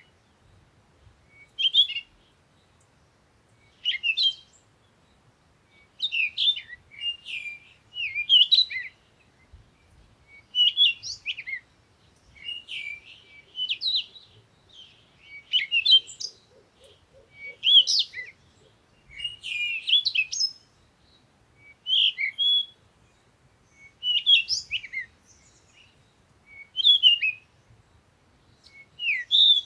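A songbird singing in short, chirpy phrases of quick rising and falling notes, repeated about every one to two seconds with brief pauses between.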